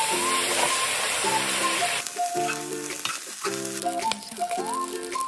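Scallions and soy sauce sizzling loudly in a hot wok as they are stirred, over a light backing tune. About two seconds in the sizzle cuts off, leaving the tune with light clicks of stirring through the fried rice.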